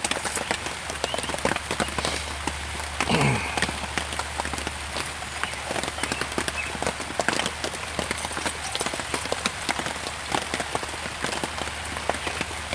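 Rain pattering on a tarp overhead, a dense stream of small drop ticks. About three seconds in, a short rising sliding sound.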